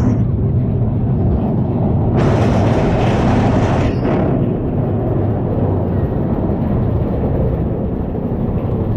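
Big Thunder Mountain Railroad mine-train roller coaster rumbling along its track. A loud hiss starts about two seconds in and stops sharply about two seconds later.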